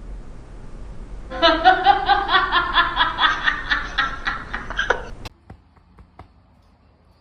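A person laughing in a quick run of pulsed laughs for about four seconds, cut off abruptly, followed by a few faint clicks.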